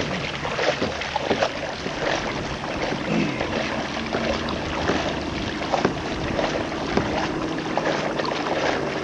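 Shallow sea water splashing and sloshing around a person wading and a towed kayak, in many small irregular splashes over a steady wash.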